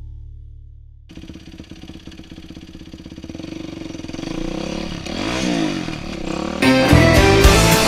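Dirt bike engine running and revving up and down as the bike is ridden. Loud music starts near the end.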